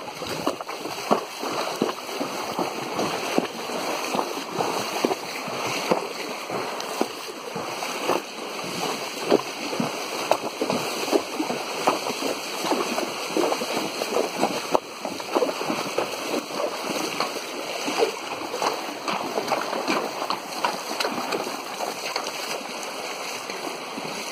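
Horses wading through a shallow stream, their hooves splashing irregularly in the running water.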